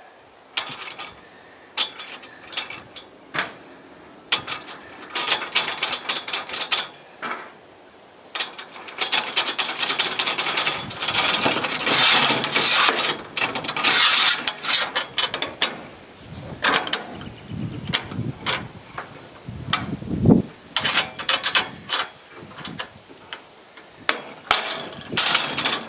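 Tools working on the bolts of solar panel mounting rails: bursts of rapid ratcheting clicks and scattered metal knocks, with one heavier thump about twenty seconds in.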